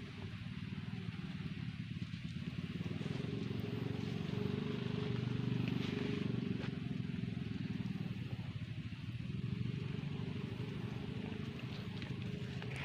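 A small engine running steadily, a continuous low hum.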